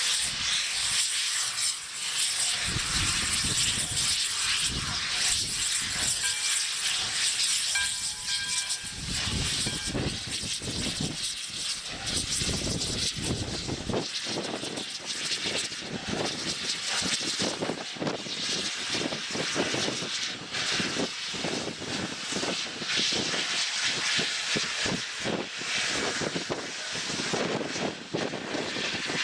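Strong wind buffeting the microphone in gusts, a steady rumbling rush that largely covers the steam locomotive No. 93 moving in the yard.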